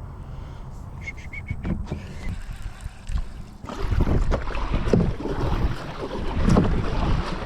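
Wind buffeting the microphone on a kayak, getting much louder and gustier about halfway through, with a few light clicks early on.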